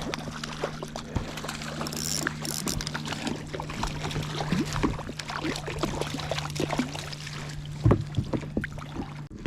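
Water splashing and knocking around a small inflatable dinghy, with many short clicks and splashes, over a steady low hum that cuts off suddenly near the end.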